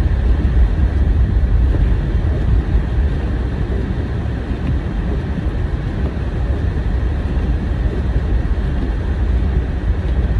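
Car driving, heard from inside the cabin: a steady low rumble of engine and tyre noise on a snowy road.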